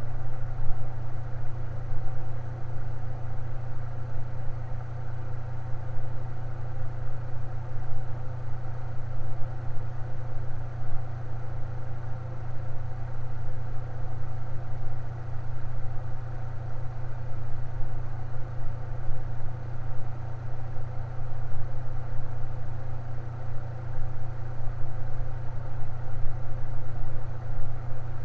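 Electric fan running steadily: a strong low motor hum with an even rush of air above it.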